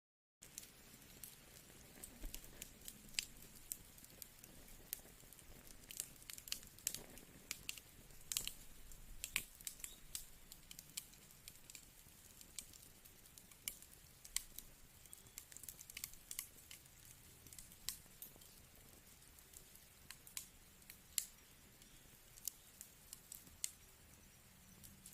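Wood fire in a fireplace crackling: irregular sharp snaps and pops over a faint steady hiss, starting about half a second in.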